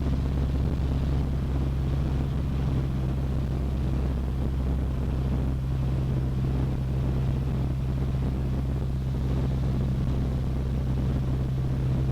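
Cessna 152's four-cylinder Lycoming engine and propeller droning steadily in flight, heard inside the cockpit, with no change in power.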